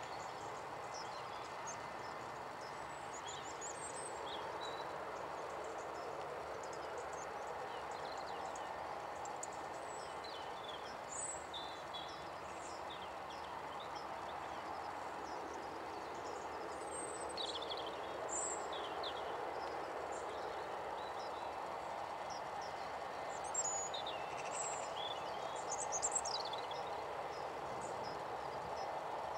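Birds chirping in short, high calls scattered throughout, a few louder ones near the end, over a steady background noise.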